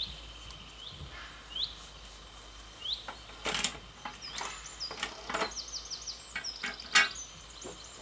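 Birdsong of short rising chirps, then fast trilling phrases, with several sharp clicks and knocks from plastic toy figures being handled and set down.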